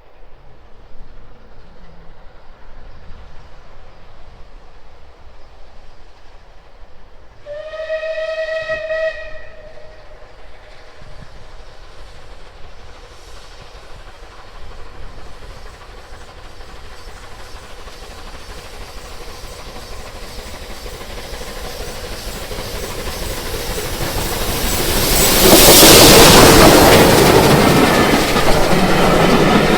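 A steam locomotive's whistle sounds once for about two seconds, then the train approaches and passes close by, its rushing noise building to a loud peak near the end.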